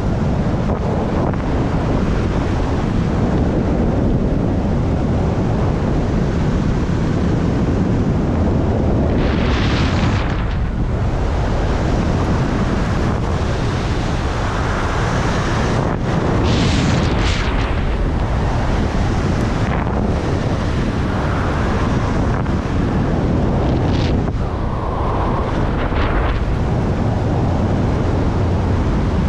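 Strong wind buffeting the microphone: a loud, constant low rumble, with a few brief hissing surges over it.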